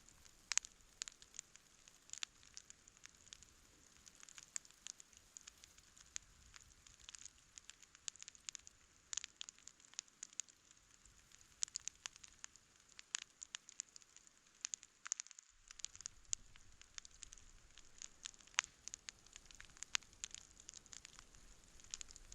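Wood campfire crackling, with irregular sharp pops, several a second, over a soft hiss.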